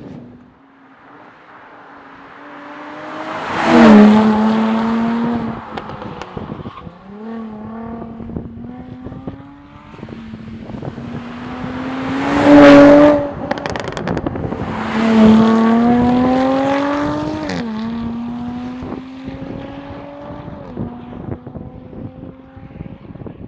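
Jaguar F-Type V6 S's supercharged 3.0-litre V6 under hard acceleration, its exhaust note climbing in pitch and dropping sharply at each gear change. It is loudest in three surges, about four, thirteen and fifteen seconds in, and runs more quietly in between.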